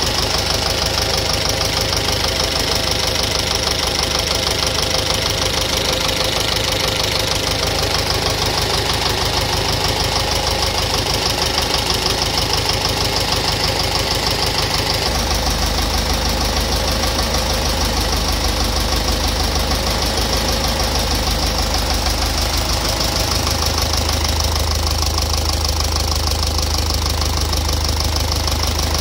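Engine idling with a rapid, even knock from inside it, the engine knock the owner is recording as a fault. The low hum of the engine shifts about halfway through.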